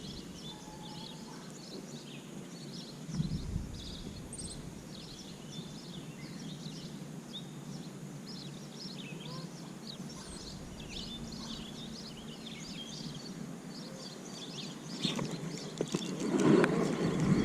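Many small birds chirping and calling over faint outdoor ambience, with a louder stretch of low noise near the end.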